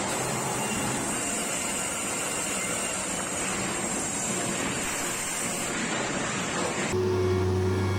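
Steady rushing noise of heavy machinery at work. About seven seconds in, it switches abruptly to an engine running at a steady pitch.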